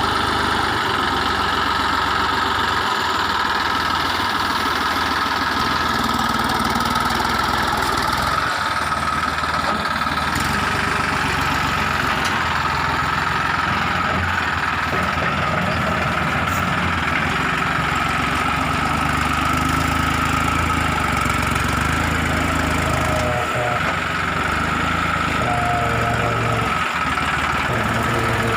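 Tractor engine running steadily, with a steady whine above the engine note.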